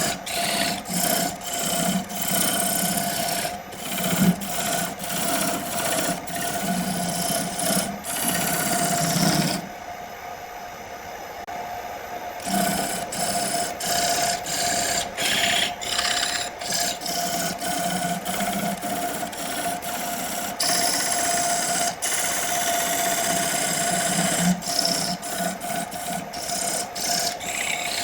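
A wood lathe runs with a steady hum while a hand tool works the spinning wood in short, repeated scraping passes. The cutting stops for about three seconds near the middle, then resumes.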